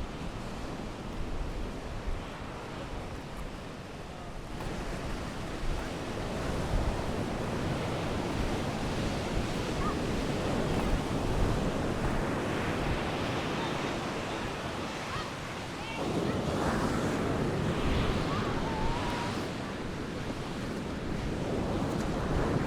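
Mediterranean Sea waves washing onto a sandy beach in a steady wash of surf, swelling louder a few times, with wind buffeting the microphone.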